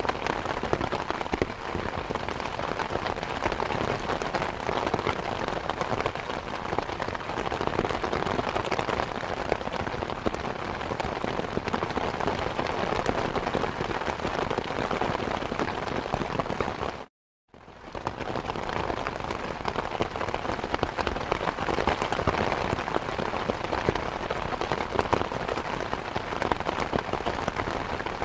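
Steady rain falling, a dense, even patter of many drops. About two-thirds of the way through it cuts out completely for about half a second, then resumes as before.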